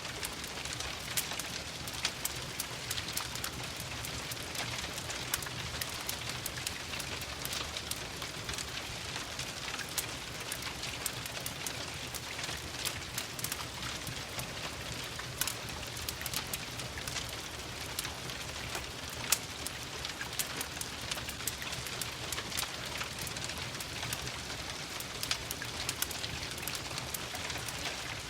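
Steady rain mixed with a crackling wood fire: a constant hiss dotted throughout with many short sharp pops and taps.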